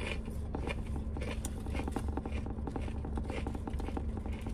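Close-miked chewing of a toasted sub sandwich: a dense run of small clicks from the mouth, over a steady low hum.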